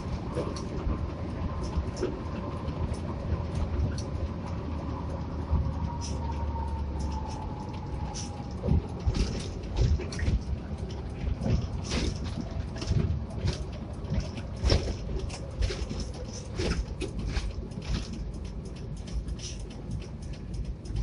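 Inside a Hino RK8 coach under way: a steady low rumble of engine and road noise, with a faint whine that slowly falls in pitch over the first several seconds. From about a third of the way in, frequent sharp rattles and knocks from the cabin join the rumble.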